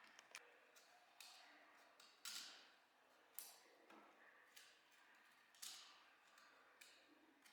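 Faint, irregular clicks and short scrapes, roughly one a second, each fading quickly: small hard objects being handled.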